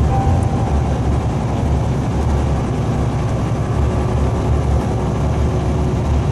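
Semi truck's diesel engine droning steadily with road and tyre noise while cruising at highway speed, heard from inside the cab.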